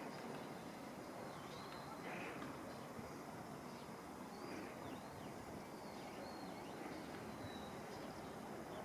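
Steady rushing of river water with faint, high bird chirps scattered throughout.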